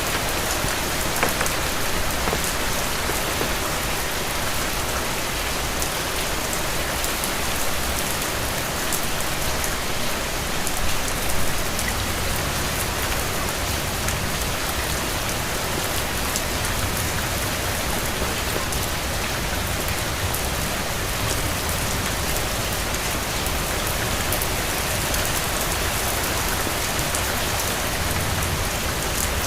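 Steady rain falling: an even hiss with scattered sharp drop ticks and no other sound standing out.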